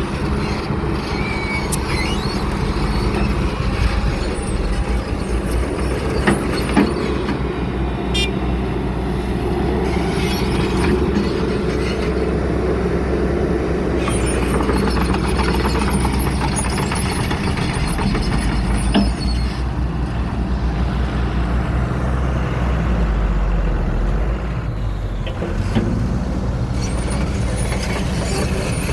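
Excavator's Cummins diesel engine running steadily under work, with a few sharp knocks and clanks.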